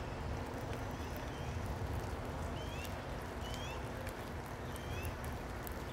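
Steady rain hiss over a low, even rumble. A bird repeats short, upslurred two-note chirps about once a second.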